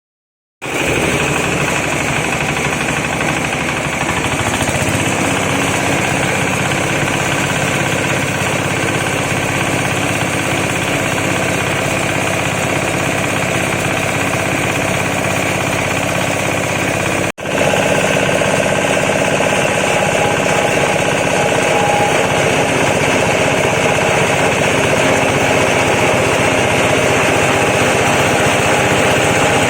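Chicken feather chopping machine running steadily with a loud, dense mechanical rattle. It cuts off abruptly about 17 seconds in and picks straight up again, a little louder and with more of a whine.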